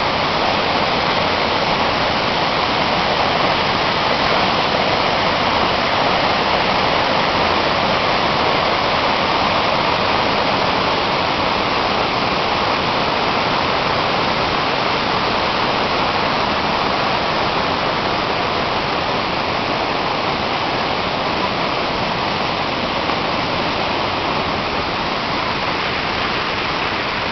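Large waterfall thundering steadily: a constant, loud rush of heavy falling water.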